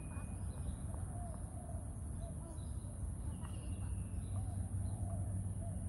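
Outdoor ambience: a steady high insect drone over a low rumble, with birds chirping and a few faint tennis ball strikes.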